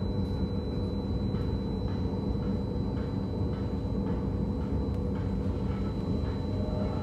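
Inside the carriage of a KLIA Transit ERL electric train at speed: a steady running rumble with an even electric hum and a high thin whine, and faint clicks now and then from the track.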